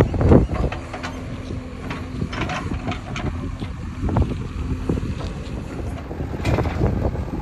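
Diesel engine of a JCB 3DX backhoe loader running, with scattered knocks and wind buffeting the microphone.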